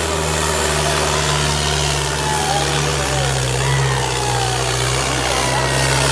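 Tractor diesel engine running steadily, its note dropping slightly about three seconds in.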